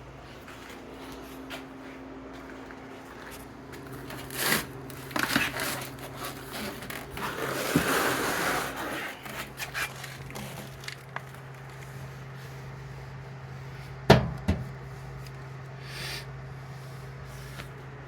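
A few sharp knocks and a scraping rustle over a steady low hum: things being handled and bumped, with a double knock late on.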